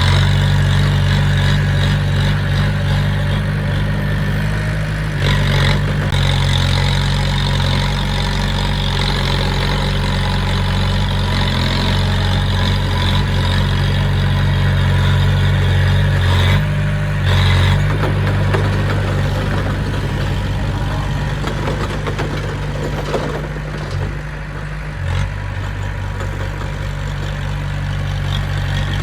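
Diesel engine of heavy earthmoving machinery running steadily, with a few brief knocks or clanks along the way.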